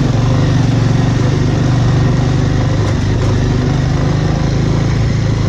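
Bajaj Avenger's single-cylinder engine running steadily under way, with an even hiss alongside it.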